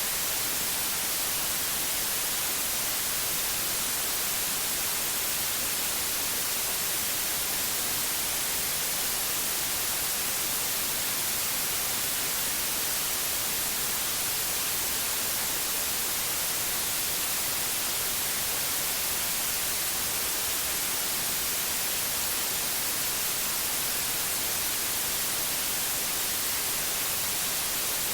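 Synthetic white noise: a steady, even hiss, brightest in the highs, with no changes or events.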